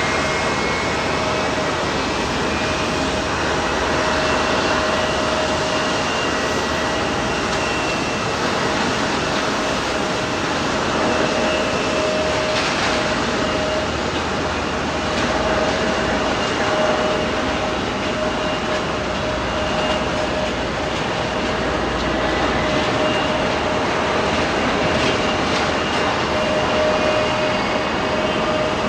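Jet airliner engines running steadily at low power: a broad even rush with a steady hum and faint high whines that drift slightly in pitch.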